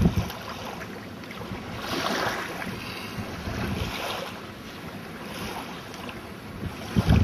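Strong wind buffeting the microphone, with heavy low gusts at the start and again near the end, over a rushing noise that swells about two seconds in and again around four seconds.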